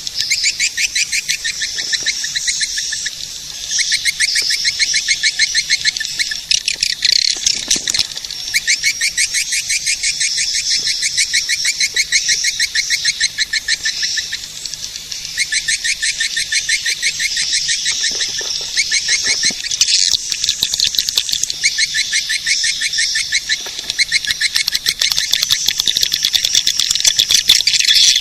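Recorded swiftlet calls used as a lure for swiftlet nest houses: a dense, fast chattering of clicky chirps in phrases a few seconds long with short breaks between. The sound is high and thin, with no low end.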